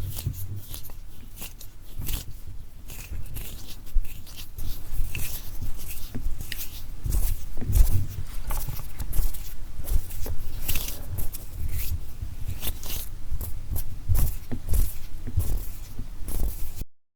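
Close-miked hand sounds: palms and fingers rubbing and brushing right at the microphone, a dense run of short crisp rustles with soft low bumps underneath.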